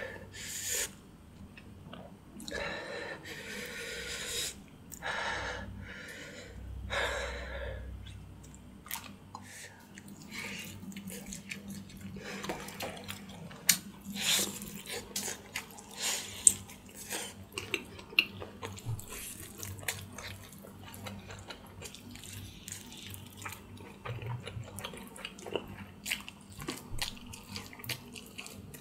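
Close-miked wet eating sounds of gnawing and sucking meat off a pork spine bone: many small sharp clicks, smacks and slurps. A few longer, louder noisy sounds come in the first eight seconds.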